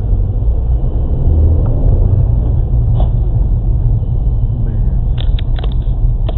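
A car driving, with a loud, steady, low rumble of engine and road noise, and a few short sharp clicks in the last second and a half.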